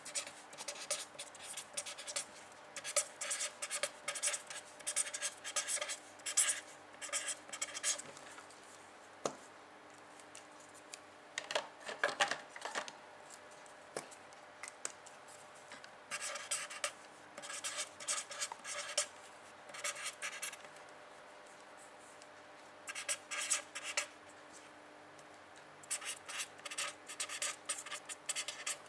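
Handwriting with a pen: runs of quick scratching strokes come in bursts of a few seconds each, separated by short pauses, as a sentence is written out.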